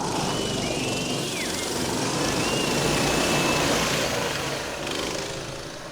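Minibike engines running in a race, with a thin whistling tone that glides up and down about a second in and holds again a little later.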